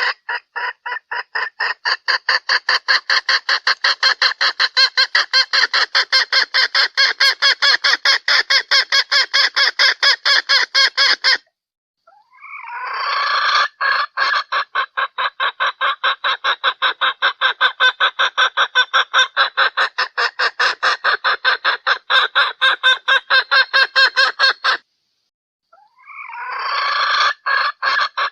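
Junglefowl hen calls used as a lure to draw in a male: rapid, evenly repeated clucks, about four a second, in long bouts that break off suddenly twice.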